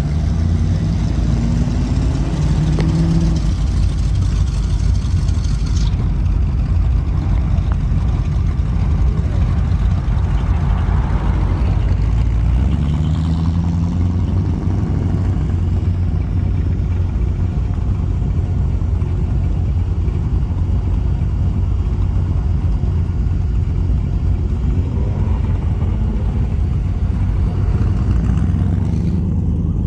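Hot rods and classic cars driving off one after another, their engines giving a steady, heavy low rumble. Revs rise as cars accelerate away near the start, about halfway through and near the end.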